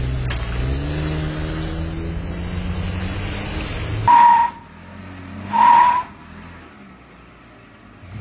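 A vehicle's engine hums and slowly rises in pitch as it speeds up. Then come two short, loud honks of a single-tone car horn, about a second and a half apart, which are the loudest sounds.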